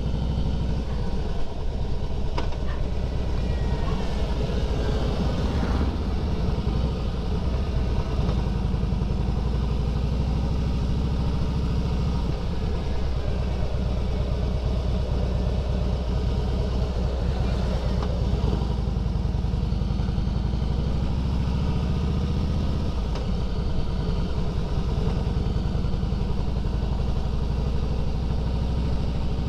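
Harley-Davidson Fat Boy's air-cooled V-twin engine running steadily as the motorcycle is ridden, its note holding even with no big revs or stops.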